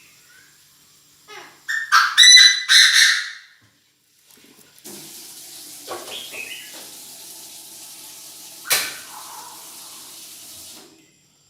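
Chinese francolin calling, a loud, harsh burst of several notes about two seconds in. A steady hiss with a sharp click follows for about six seconds.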